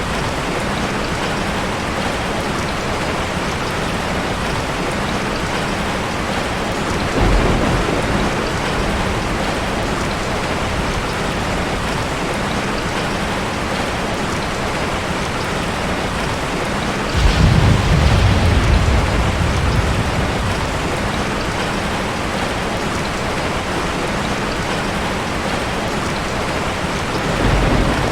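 Heavy rain falling steadily, with rolls of thunder: a low rumble about seven seconds in, a louder rumble lasting about three seconds past the middle, and another starting near the end.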